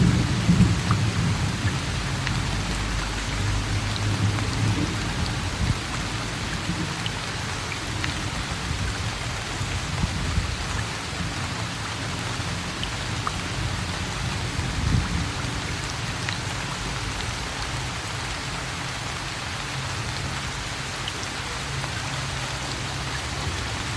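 Steady rain falling, with a low rumble of thunder that fades away over the first few seconds and a brief low swell of rumble again about fifteen seconds in.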